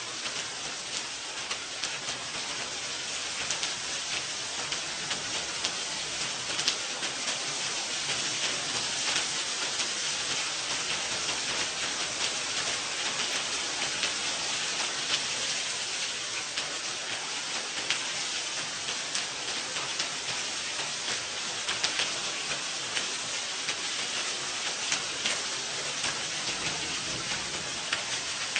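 Steady light rain falling, with the patter of individual drops ticking on surfaces.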